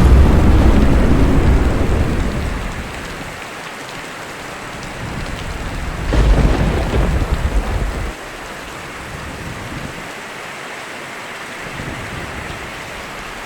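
Thunder rumbling over steady rain: a long rumble that fades away over the first few seconds, then a second, shorter rumble about six seconds in.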